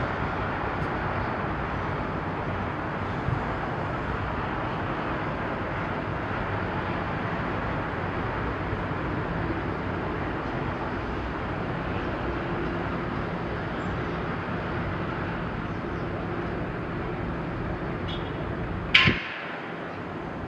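Steady rushing outdoor background noise with a low rumble. Near the end comes a single sharp clack, and after it the low rumble drops away.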